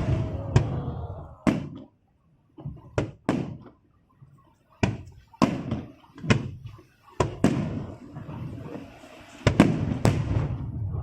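Aerial fireworks shells bursting in an irregular series of sharp booms, each trailing off in a low rumble, with a brief lull about two seconds in.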